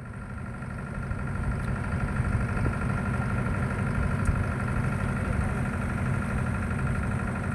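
A motor vessel's engine running steadily at idle. It gets louder over the first couple of seconds, then holds even.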